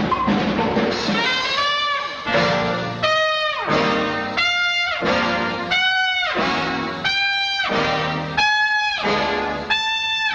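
Big-band swing brass from a 1940s cartoon score. After a few seconds of full band, the trumpets play a series of separate blasts about every second and a half, each sliding down into a held note and each a step higher than the last.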